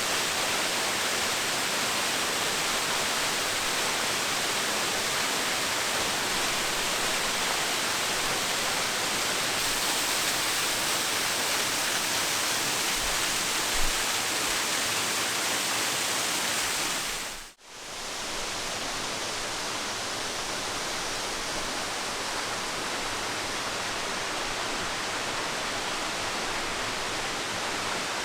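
Waterfall: falling water rushing steadily in a dense, even hiss. A short knock about halfway through, and a brief dip about two-thirds through, after which the rush goes on slightly quieter and duller.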